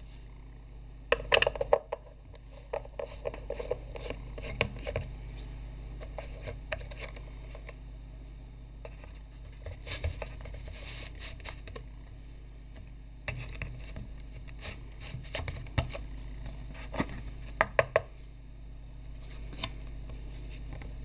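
Objects being handled on a workbench: clusters of short clicks, knocks and light scrapes, over a steady low hum.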